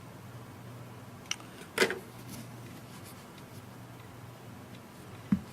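A few small clicks and taps from the tablet and its parts being handled on the bench, the loudest about two seconds in, over a steady low hum.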